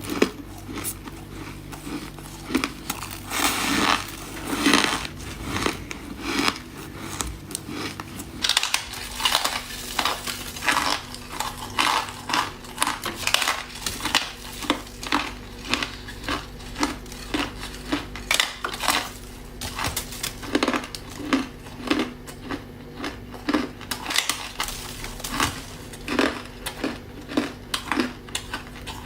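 Ice being bitten and chewed close to the microphone: a long run of sharp, crackly crunches, with a louder cluster a few seconds in and then about two crunches a second.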